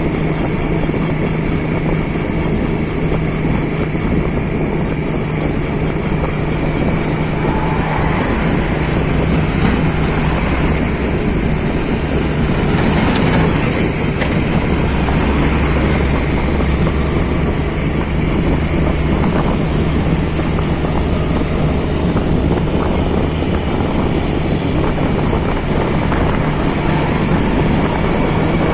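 Heavy diesel engine running steadily with a constant hum. A deeper rumble comes in about halfway through.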